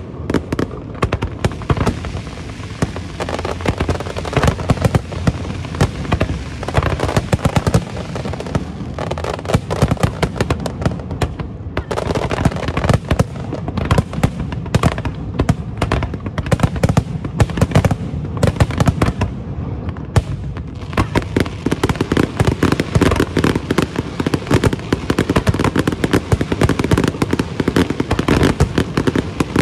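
Aerial fireworks going off in a dense, continuous barrage of bangs and crackles, thinning briefly twice along the way.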